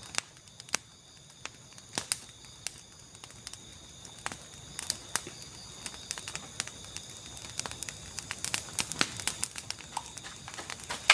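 Irregular sharp crackles and clicks, growing busier near the end, over a steady high-pitched drone of night insects.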